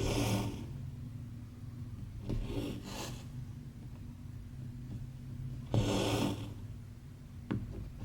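Embroidery thread being pulled through 14-count cross-stitch fabric. It gives a short rasping swish every two to three seconds, two of them close together about midway.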